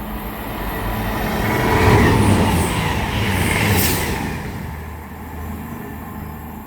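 CrossCountry Voyager diesel-electric multiple unit passing through at speed, engine and wheel noise swelling to a peak about two seconds in, then fading away over the last few seconds.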